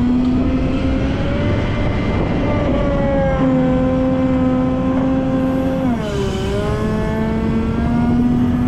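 Volvo L90F wheel loader's diesel engine running at working revs; its pitch drops briefly about six seconds in, then climbs back up.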